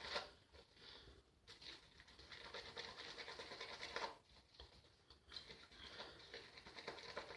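Shaving brush working a thick shaving cream into lather: a faint, wet, crackly swishing, broken by a couple of short pauses.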